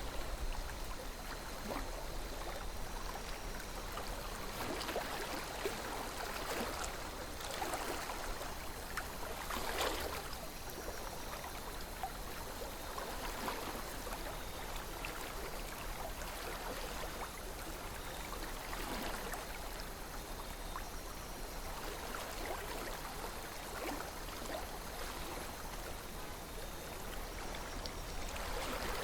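River water flowing steadily, with swells of splashing and gurgling now and then.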